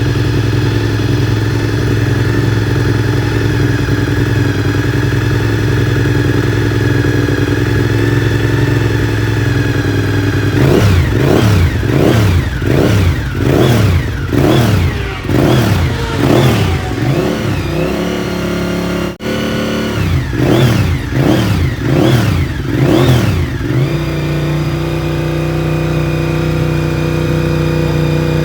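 Honda VTR1000 SP-1 (RC51) 90-degree V-twin engine idling steadily, then revved in a series of quick throttle blips, roughly one a second, before settling back to a steady idle at a slightly higher pitch.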